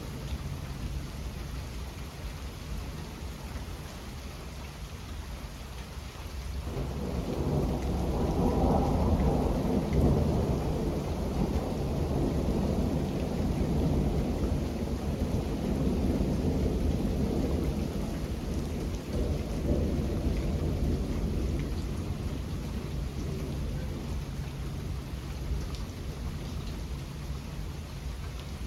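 Steady rain with a long roll of thunder: the thunder begins about six or seven seconds in, is loudest a few seconds later, then rumbles on and slowly fades over the next ten seconds or so.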